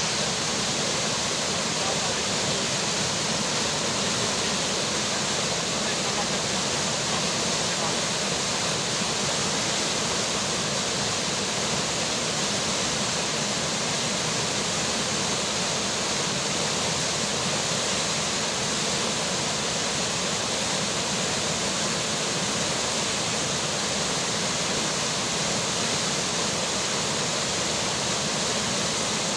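Flowing river water with rainfall, a steady, even rush with no change.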